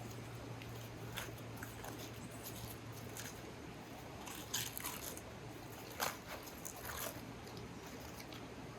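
Scattered crunches and bites of someone eating roast chicken, the strongest about halfway through, over a faint steady hum.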